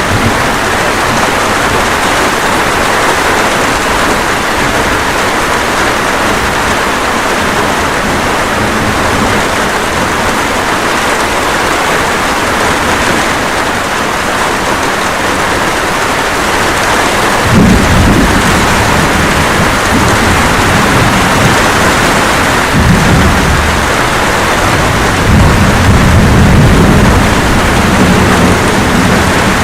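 Steady rain falling in a thunderstorm. Low rolling thunder rumbles in just past the halfway point, then twice more near the end.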